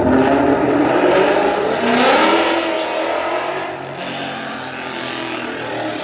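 Car engine revving hard, its pitch climbing about two seconds in and then falling away as it eases off.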